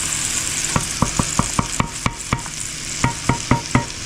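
Onions sizzling in butter in a frying pan while a utensil is knocked sharply against the pan, a quick run of about seven ringing taps, then four more near the end.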